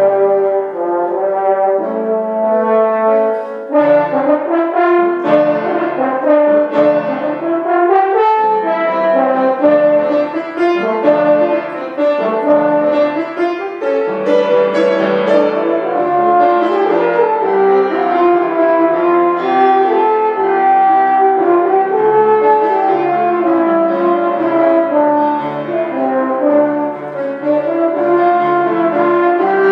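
French horn playing a sustained melody with instrumental accompaniment.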